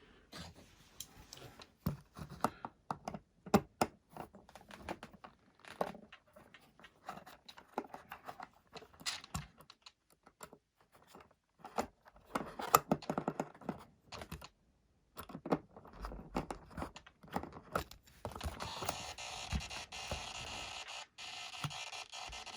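Irregular small clicks, taps and scrapes of hands handling small plastic parts and tools at a workbench. From about 18 seconds in, a steady hiss starts and continues.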